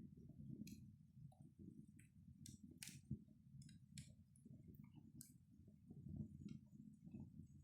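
Faint crackling of a wood fire in a fireplace: irregular sharp snaps and pops over a low steady rumble.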